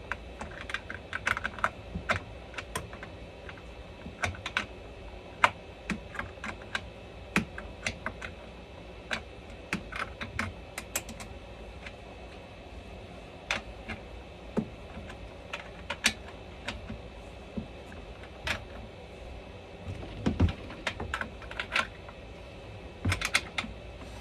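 Irregular light clicks and taps, several a second in clusters with pauses, from hands and tools working on a Husqvarna 395 chainsaw's bar and freshly tensioned chain as it is finished off after reassembly. A faint steady hum runs underneath.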